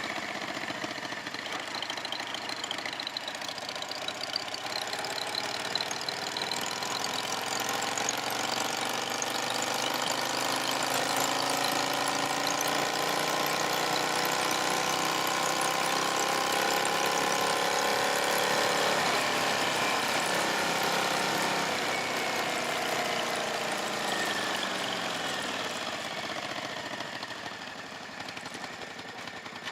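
Motorcycle engine running under way: its pitch climbs slowly and steadily for about fifteen seconds, then drops as the bike slows, with the sound getting quieter near the end.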